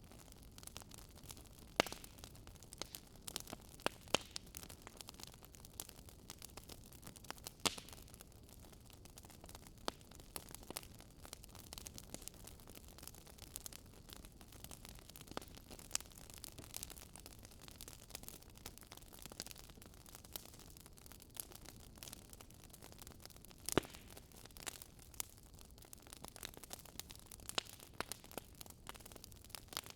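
Wood fire crackling: irregular sharp pops and snaps scattered over a faint steady hiss, the loudest pops about 2, 4, 8 and 24 seconds in.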